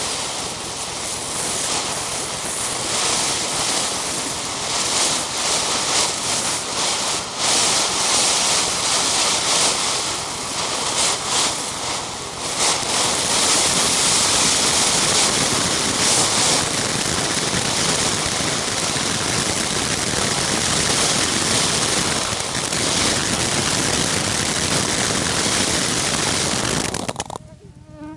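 Consumer fountain firework spraying with a loud, steady hiss and scattered crackles, growing louder partway through and stopping suddenly near the end.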